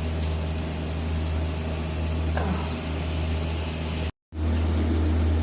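Shower water spraying steadily over a low, steady hum. The sound breaks off for a moment about four seconds in and resumes unchanged.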